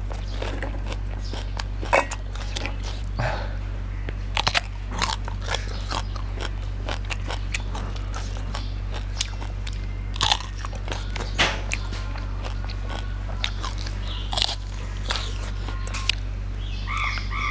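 Close-up crunching and chewing of crisp raw vegetables, with many short, sharp crunches at an irregular pace over a steady low hum.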